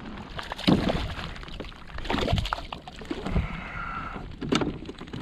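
Irregular knocks and bumps on a kayak, with water sloshing and splashing against the hull.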